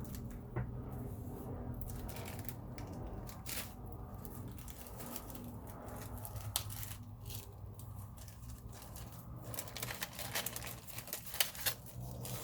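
Paper rustling and crinkling as journal papers and paper ephemera are handled and moved about, a string of short crisp sounds that grows busier near the end, over a steady low hum.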